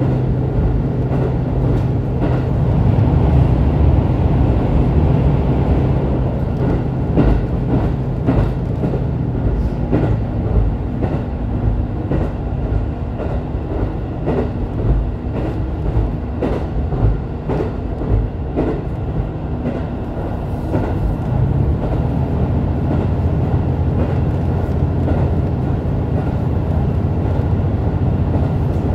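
Diesel railcar running on the JR Takayama Line, heard from inside the carriage: a steady low engine drone with wheel rumble and a run of short rail-joint clicks through the middle.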